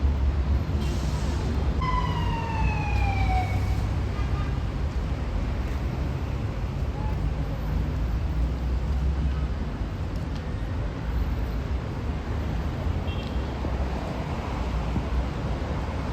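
Steady low rumble of an Airbus A319 airliner's jet engines. About two seconds in, a brief pitched tone glides downward over a couple of seconds.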